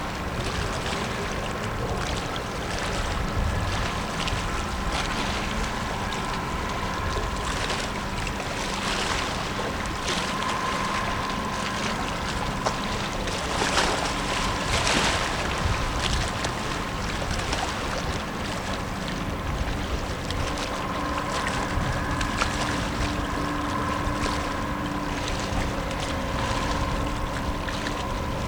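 Tugboat's diesel engines running steadily as it pushes a barge, a continuous hum under wind noise on the microphone and the wash of water.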